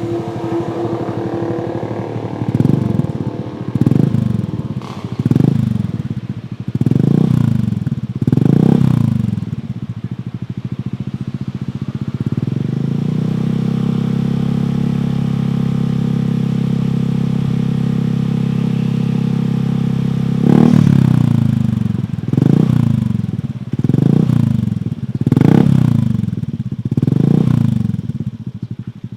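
Honda Scoopy scooter's single-cylinder engine through a Kenochi Hunter H1 aftermarket racing exhaust, revved in a series of short blips, then held at a steady higher speed for several seconds, then blipped repeatedly again.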